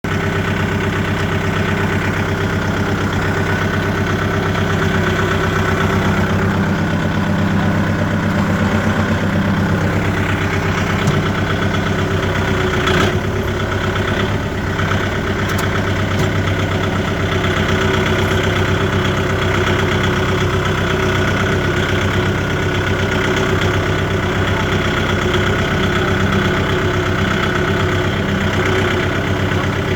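Kubota tractor's diesel engine running steadily, with one short knock about halfway through.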